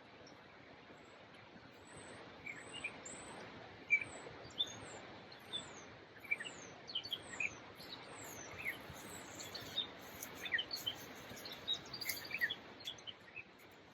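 Birds chirping and calling: many short notes, some as quick falling whistles, starting about two seconds in and growing busier, over a faint steady outdoor hiss.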